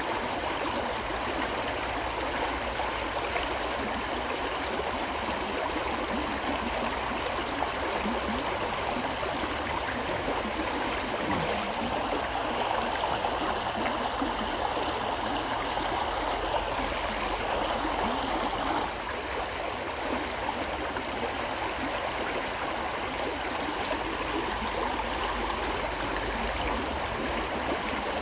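River water flowing steadily over its bed, a continuous even wash of water noise that dips slightly in level about two-thirds of the way in.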